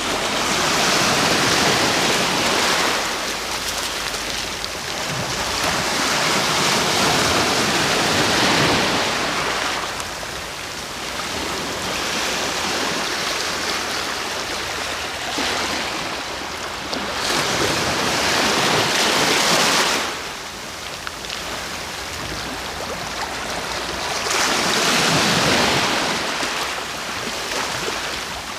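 Sea waves breaking and washing up the shore: four surging rushes a few seconds apart, with a softer hiss of water between them; the third cuts off sharply.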